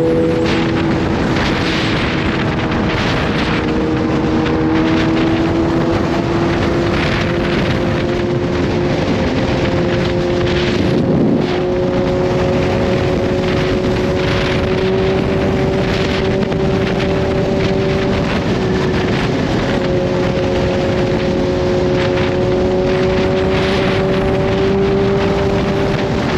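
Kawasaki Z H2's supercharged inline-four engine running at a steady cruise, its note slowly rising in pitch, with a brief break about eleven seconds in and another near nineteen seconds. Wind rushes over the microphone throughout.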